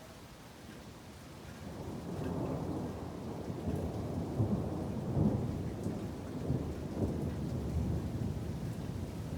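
Thunder rolling: a low rumble that builds about a second and a half in and carries on with uneven surges, over steady rain.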